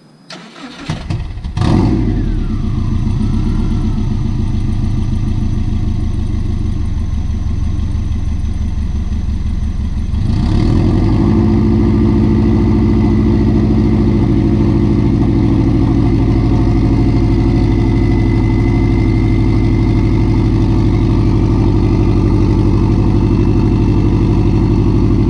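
An 818 kit car's turbocharged engine cranks and catches about a second and a half in, then runs loud and steady through an open turbo outlet, with no catalytic converter or muffler. About ten seconds in the sound steps up louder and holds there.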